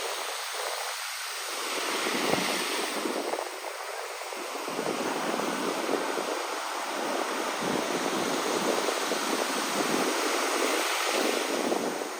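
Sea waves washing in on a shore: a steady rushing wash that swells and eases every few seconds.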